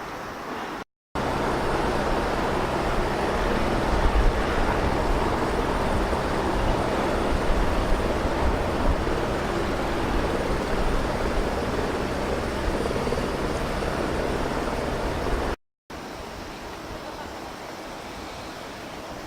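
A steady low engine drone under a loud rush of wind on the microphone. It starts and stops abruptly at edit cuts, with quieter wind and surf on either side.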